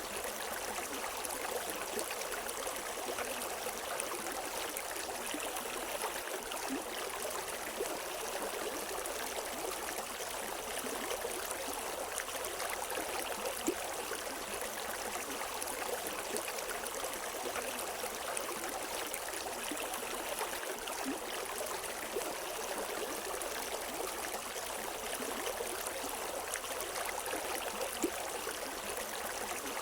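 River water flowing over rocks: a steady rushing with small splashes and trickles, without birdsong.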